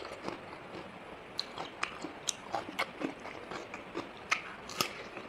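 Close-up eating sounds of chicken wings in curry being chewed and bitten, with irregular sharp wet clicks and smacks several times a second.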